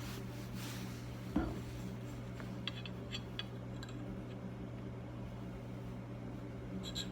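Steady low hum of a running fan or heater, with a single dull thump about a second and a half in. Light metallic clicks and taps follow, of small measuring tools being handled and set down.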